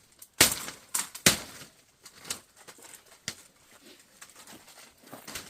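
A series of sharp, irregular knocks and cracks of bamboo and wood being struck and broken: three loud ones in the first second and a half, then a few fainter ones.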